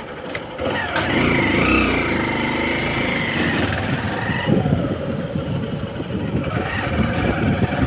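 Motorcycle engine running and speeding up, getting louder about a second in, then holding steady.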